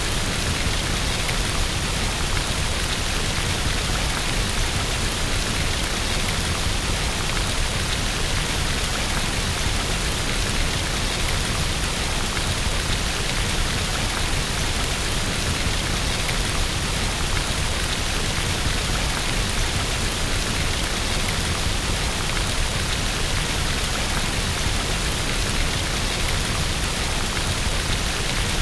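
Steady heavy rain falling, an even unbroken hiss with no change in level.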